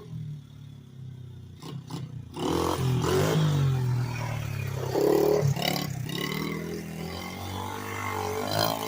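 Small pit bike engine running at a low steady note, then revved up about two and a half seconds in, staying louder with its pitch rising and falling.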